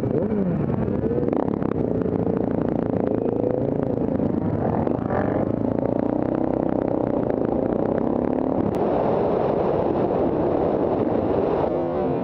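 Motorcycle engines running, their pitch rising and falling as they rev.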